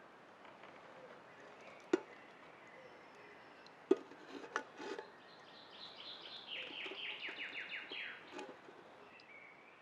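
Quiet forest ambience with a few sharp knocks, like wood being handled, around two and four seconds in; a songbird then sings a quick run of repeated descending notes for a couple of seconds.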